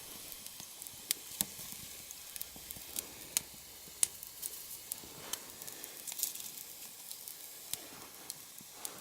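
Small, newly lit campfire of damp kindling crackling and sizzling quietly: scattered sharp pops at irregular intervals over a faint hiss, the fire not yet properly caught.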